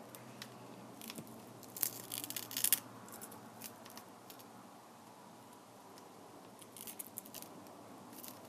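Small handling noises of tablet repair work: two short clusters of crisp clicks and scratches, the louder about two seconds in and a lighter one about seven seconds in, over a quiet room background.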